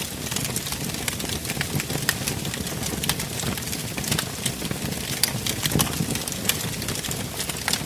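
Wood fire in a fireplace crackling, with many irregular sharp pops over a steady low rush of burning.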